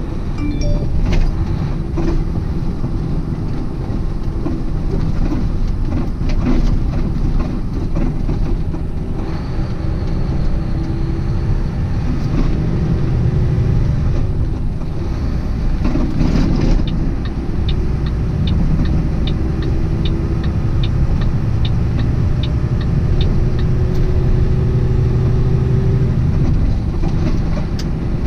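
Semi truck pulling a loaded trailer, heard inside the cab: a steady low engine and road rumble with scattered rattles. Partway through, a regular high ticking, about three a second, runs for several seconds.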